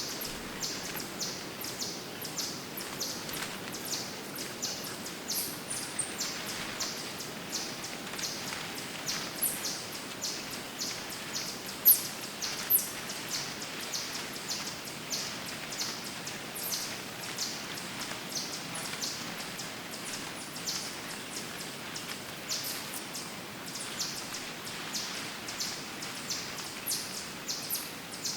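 Woodland ambience: small birds chirping, one high chirp repeating about twice a second, over a steady background hiss. Two louder sharp sounds come about twelve seconds in.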